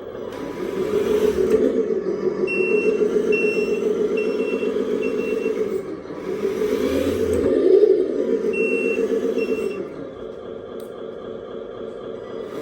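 Electric motor of a radio-controlled model truck whining in two long spells, its pitch rising to a peak and falling again in the second spell. A high reverse-warning beeper pulses in a regular series of beeps during the first spell and briefly again near the end.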